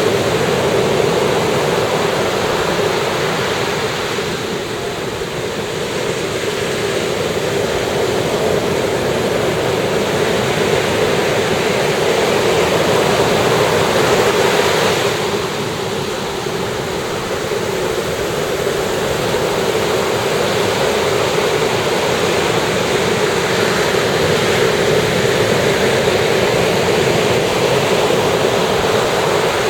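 Ocean surf breaking on a beach, a steady wash of waves that eases off briefly twice and swells again.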